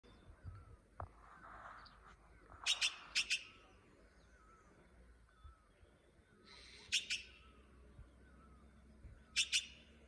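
Birds calling: loud, sharp, very short notes in quick groups of two to four, heard three times, over faint, softer chirps repeated throughout.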